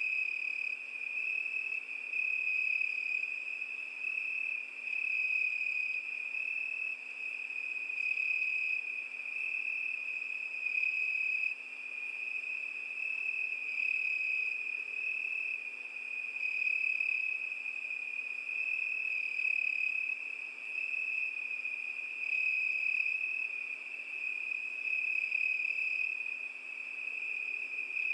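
Crickets singing, a continuous high trill that swells and fades about every two seconds.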